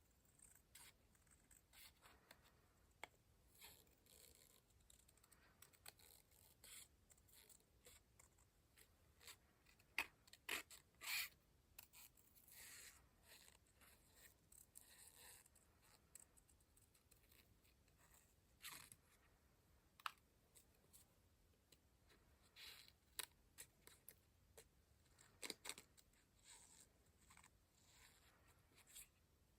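Scissors cutting paper in short, quiet snips, mixed with paper being handled, with the loudest cuts about ten to eleven seconds in.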